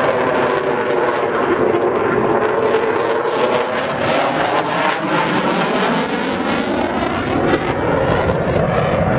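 Jet aircraft flying past, a loud steady engine noise with a slow sweeping, phasing tone as it passes.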